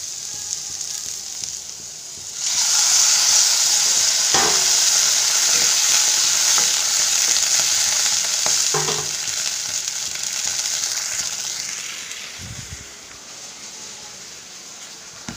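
Carrots stir-frying in a nonstick kadai. The sizzle jumps suddenly louder a little over two seconds in, as steam rises from the pan, then slowly dies away. A wooden spatula knocks against the pan a couple of times.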